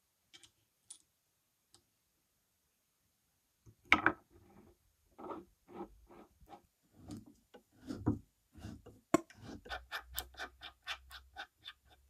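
Workshop handwork: a few faint clicks, then a run of separate knocks and clicks, turning in the last couple of seconds into a quick, even ticking of about three a second over a faint low hum.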